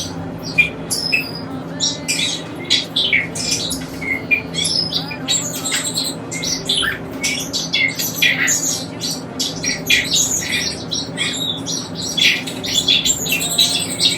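Pet cockatiel and other caged birds chirping and squawking, with many short, high calls overlapping without a break, over a steady low hum.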